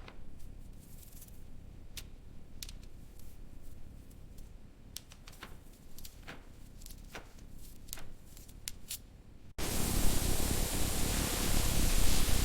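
Scattered light clicks over a faint low rumble, then about nine and a half seconds in a sudden loud, steady hiss of a paint spray gun laying down primer.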